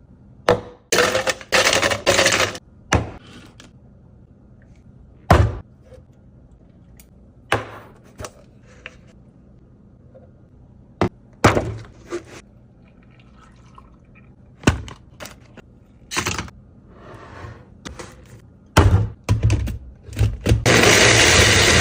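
Objects being handled: a series of separate knocks and short crinkly rustles with pauses between, then a steady rushing noise starts near the end.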